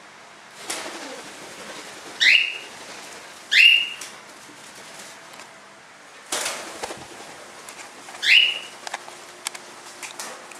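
A bird giving three loud, short chirps, each rising in pitch, with bursts of rustling in between.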